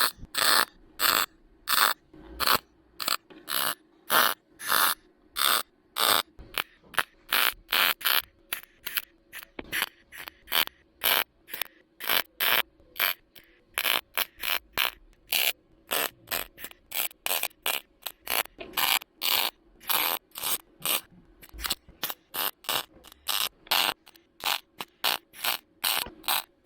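MIG welder laying short tack and stitch welds on thin car-body sheet metal, the arc crackling in quick bursts of about two to three a second over a faint steady hum.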